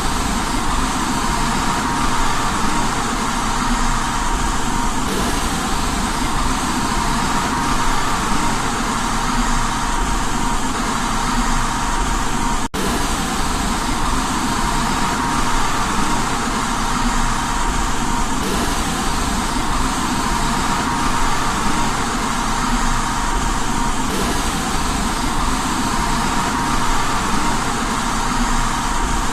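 Steady white noise for baby sleep: an even hiss with a low rumble underneath and a faint steady tone running through it. It cuts out for an instant about halfway through, then carries on unchanged.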